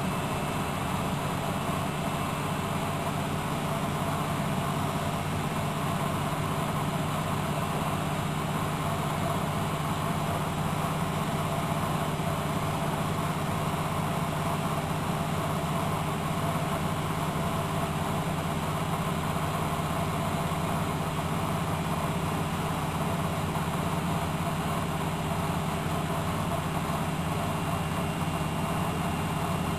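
Miele W763 washing machine running with a steady, unbroken hum and a few fixed tones over it, holding the same pitch and level throughout.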